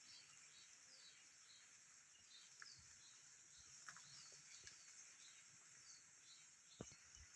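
Faint rural outdoor ambience: a steady high hiss with a run of short, high chirps from a small bird or insect, and a few soft clicks.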